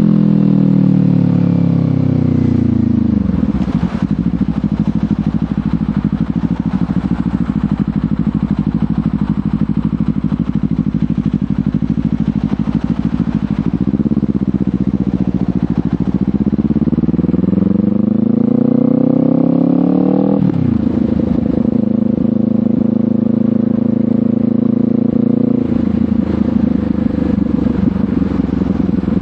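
Kawasaki Ninja 500's parallel-twin engine through a LeoVince GP Corsa Evo exhaust: the revs fall over the first three seconds and hold low and steady for about ten seconds, then climb for about four seconds. They drop sharply on a gear change about twenty seconds in, and the engine runs steady after that, with a smaller change in pitch near the end.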